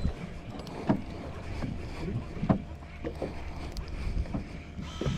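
Fishing boat at sea: a steady low rumble of wind on the microphone and water, with irregular knocks about once or twice a second.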